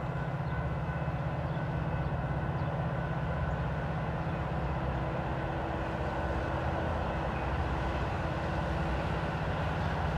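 Metra commuter train approaching in the distance: a steady low rumble that slowly grows louder, with faint steady high tones above it.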